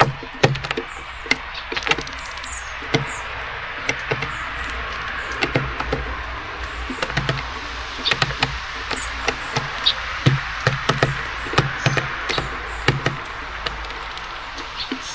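Rapid, irregular taps and knocks at a garden bird feeder, with small birds landing and pecking seeds while rain hisses steadily. A few short, high bird chirps come in between.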